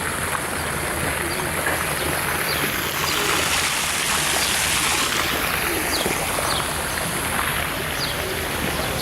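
Busy outdoor ambience: a steady rushing hiss with a murmur of voices underneath and several short, high, falling bird chirps.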